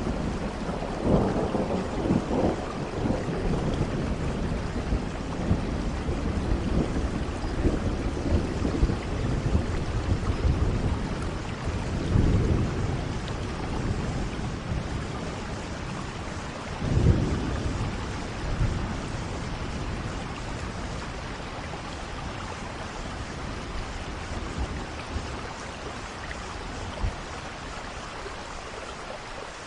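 Thunderstorm: steady rain falling with rolling thunder, the rumbles swelling a few times in the first twenty seconds, loudest about seventeen seconds in, then easing to rain alone.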